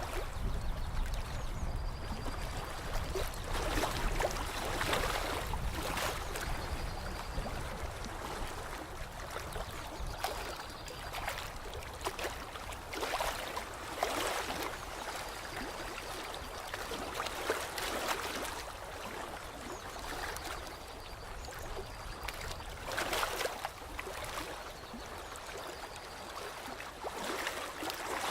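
Lake water lapping and trickling, swelling in irregular surges every one to three seconds.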